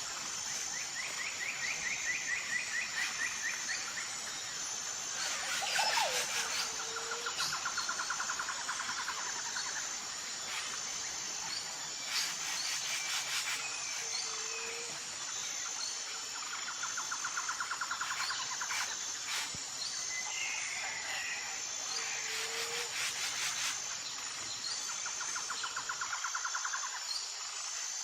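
Tropical forest ambience: a steady high insect drone with a fast pulsing beat throughout, repeated trilling bird calls lasting a couple of seconds each, and a short low call that comes back about every seven or eight seconds.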